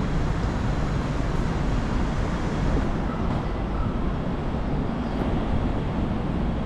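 Steady roadside ambience: a continuous low rumbling noise, like traffic along a city street, with no distinct events.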